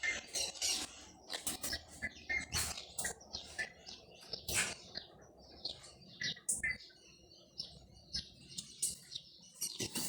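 Irregular clatter of objects being handled and scrubbed: short knocks and clicks with a few brief squeaks.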